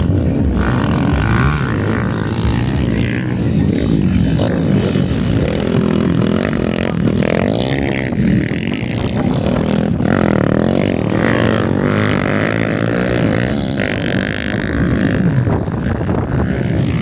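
Motocross dirt bike engines racing, their pitch rising and falling as the riders open and close the throttle, with more than one engine heard at once.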